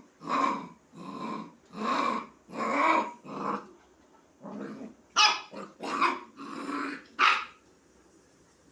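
Puppy giving a quick run of about ten short growling barks to call a kitten to play. The calls stop about a second before the end.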